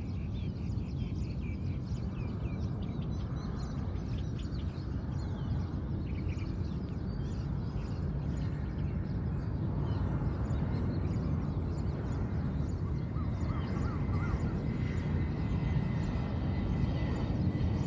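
Outdoor field ambience: a steady low rumble, with small birds chirping rapidly in the first few seconds and more faintly later.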